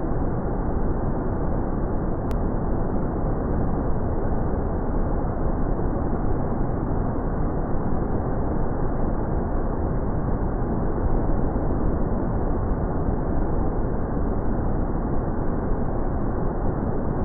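Waterfall in monsoon flow: a steady, dull rushing of falling water with nothing high or hissy in it.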